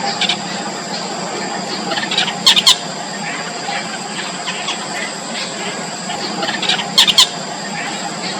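Yellow bittern chicks in the nest giving thin, high squeaking calls, with two louder bursts of quick sharp calls about two and a half seconds in and again near seven seconds.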